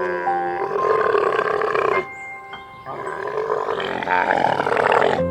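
Camel vocalizing: two long, rough calls, each about two seconds, with a short pause between them.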